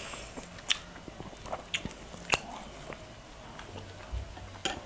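Close-miked chewing of crispy deep-fried pork intestine (chicharon bulaklak), with a few sharp crunches about a second apart.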